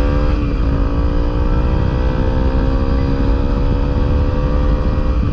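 Honda CRF250L single-cylinder motorcycle engine under way, with one upshift about half a second in and then the engine note climbing steadily as the bike accelerates. A heavy low rumble of wind on the microphone runs underneath.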